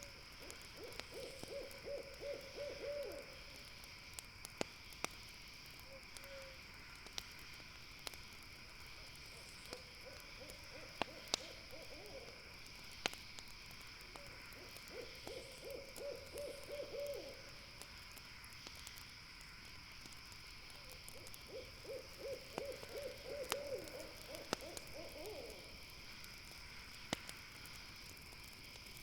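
An owl calling in fast trilled runs of hoots, four bouts of two to three seconds each, over scattered sharp pops and crackles from a campfire and a steady high-pitched drone.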